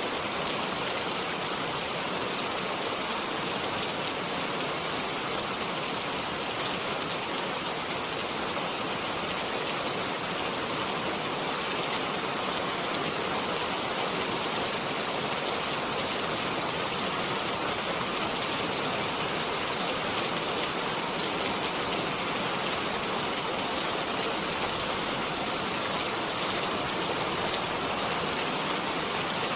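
Steady rain, a dense, even hiss of falling rain with fine drop patter throughout.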